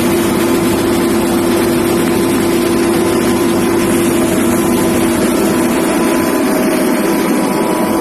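Railway ballast dressing machine (ballast regulator) running: a loud, steady engine-and-machinery drone with a constant hum.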